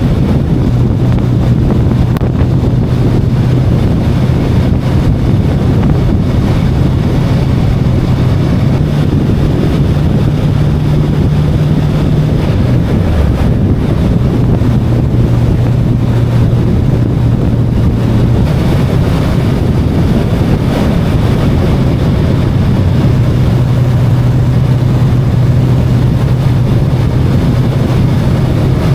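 VOGE 525DSX parallel-twin motorcycle engine running steadily at riding speed, with wind rushing over the microphone. The engine note rises a little about nine seconds in, dips briefly around thirteen seconds as the throttle eases, then holds steady again.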